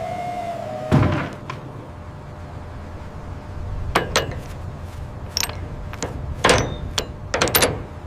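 Steady machinery hum with a string of sharp, irregular knocks and clanks, sparse at first and coming close together near the end.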